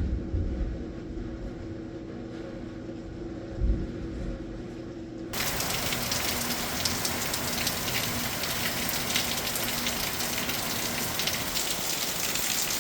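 Heavy rain pouring down, heard as a dense, steady hiss that comes in suddenly about five seconds in. Before that there is only a muffled low rumble with a faint hum.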